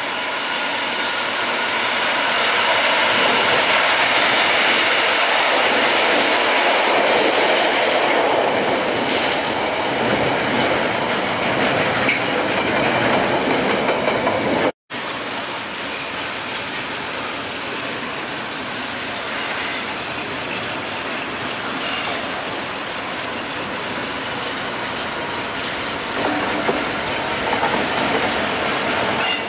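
Diesel-hauled freight trains passing: a locomotive and a long rake of container wagons rumble by, loudest a few seconds in, wheels running over the rails. After a sudden cut, a second diesel locomotive hauling tank wagons passes with a steadier rumble that rises near the end as the locomotive comes by.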